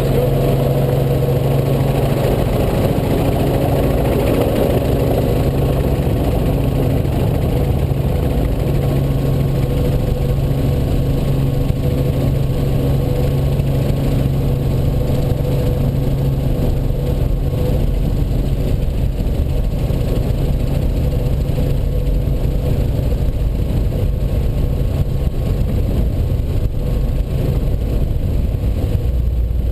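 Robinson R44 Raven helicopter in flight, heard from on board: the steady drone of its six-cylinder Lycoming piston engine and rotors, loud and unchanging.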